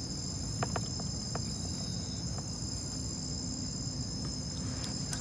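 Steady chorus of crickets, a constant high-pitched trill, over a low rumble with a few faint clicks.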